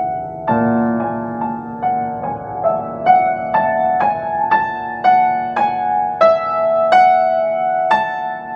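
Solo piano playing: a chord with low notes struck about half a second in, then single treble notes struck about twice a second over it, stepping higher in pitch.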